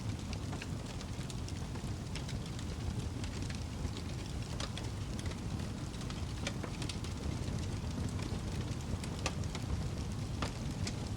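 Wood fire in a fireplace crackling: a steady low rumble of the flames with irregular sharp pops and snaps, several a second at times.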